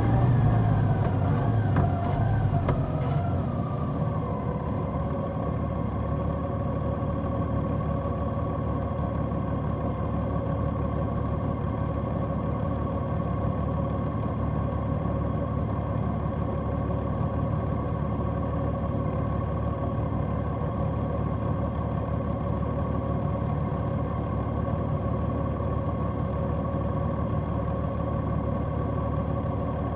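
Large motorcycle engine with its pitch falling and road and wind rush dying away over the first few seconds as the bike slows. After that the engine runs at a steady, unchanging note, typical of idling at a stop.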